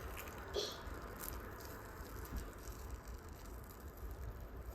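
Faint, steady pattering and rattling from food cooking in a pan, with a few light clicks.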